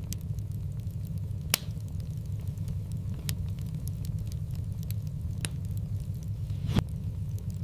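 Wood fire burning in a fireplace: a steady low rumble of flames with scattered sharp crackles and pops, two of them louder, about a second and a half in and near the end.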